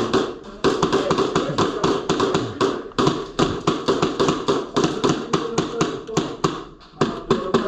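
Rapid airsoft gunfire: a fast run of sharp cracking shots, several a second, with a short gap about half a second in.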